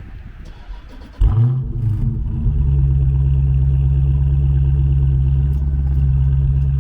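Dodge Charger Scat Pack's 392 (6.4-litre) HEMI V8 starting about a second in with a loud flare of revs, then settling into a steady idle. The engine is already partly warm from a short drive, so this is not a full cold start.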